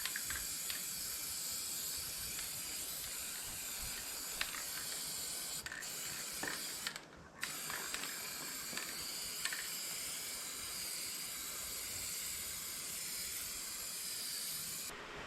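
Aerosol spray paint hissing steadily from a can fitted with a trigger grip, with two brief stops where the trigger is let go, about six and seven seconds in, and a few faint clicks.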